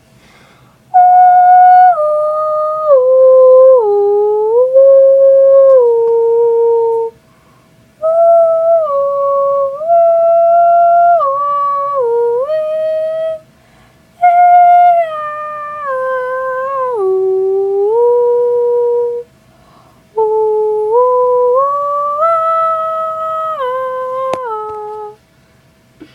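A young girl humming a high, wordless, theremin-like tune: four phrases of several seconds each, held notes stepping down and back up in pitch, with short breaks between them.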